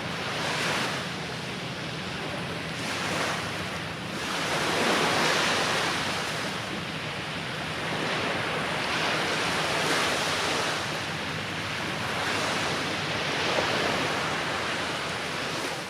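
Sea surf washing onto a beach: a steady rush of noise that swells and ebbs every few seconds as the waves break.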